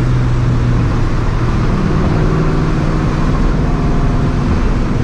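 Straight-piped, supercharged 2004 Ford Mustang GT's 4.6-litre two-valve V8 running at a steady cruise, a low, even exhaust drone with little change in pitch.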